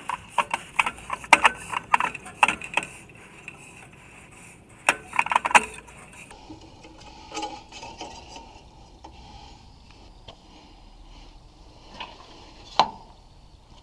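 Tools and small metal parts clinking and tapping during hands-on disassembly work, in quick irregular strokes for the first three seconds and again around five seconds, then only a few scattered knocks, one sharp knock near the end.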